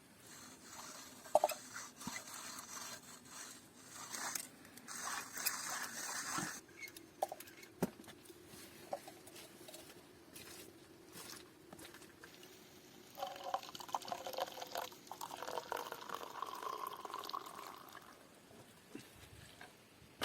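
Liquid being poured, in two spells several seconds apart, with a few light clicks and knocks of handling between them.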